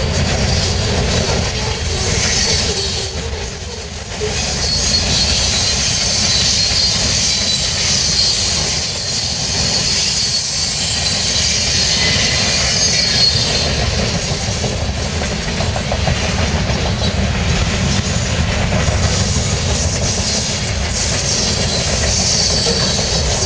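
Freight cars of a long CN train rolling past, covered hoppers and then tank cars, with a steady wheel rumble and rail clatter. A high wheel squeal comes and goes, strongest about two seconds in, through the middle and near the end.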